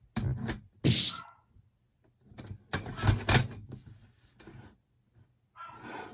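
Irregular knocks and clatter of things being handled, with a short scrape about a second in and a stretch of rustling near the end.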